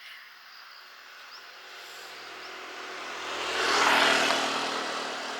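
A road vehicle passing by: its engine hum and tyre noise swell to a peak about four seconds in, then fade.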